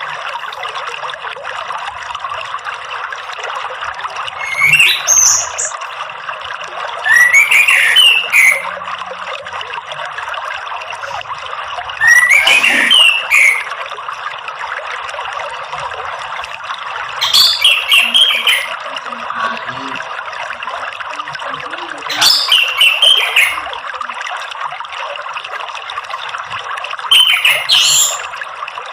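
Orange-headed thrush singing short phrases of quick rising and falling whistled notes, six in all about every five seconds, over a steady rush of running water.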